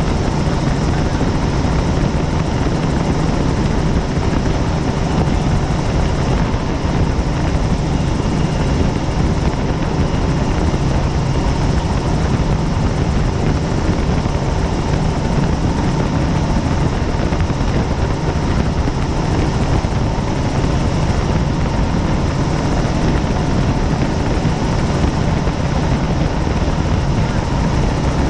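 Helicopter in steady flight, its rotor and engine making a loud, unchanging drone with a strong low hum.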